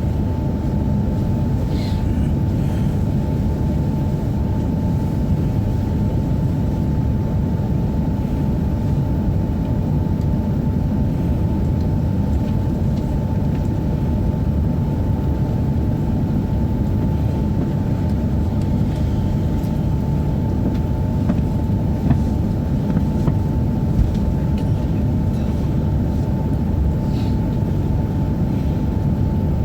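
Steady low hum inside a Tohoku Shinkansen car standing still on the line, with a faint steady whine over it and a couple of small knocks near the end.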